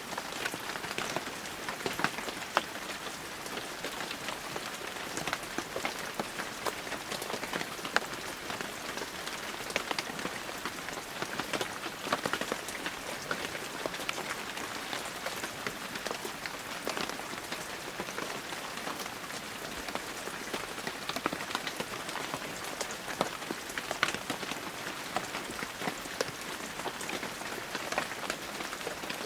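Heavy rain falling steadily, a dense hiss with many individual drops pattering and ticking close by.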